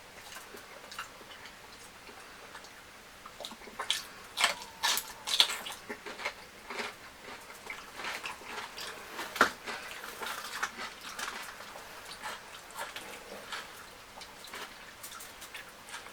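Close-up eating sounds of a person chewing fried fish and fufu: irregular wet clicks and smacks. They bunch together about four to six seconds in, with one sharp loud smack at about nine and a half seconds.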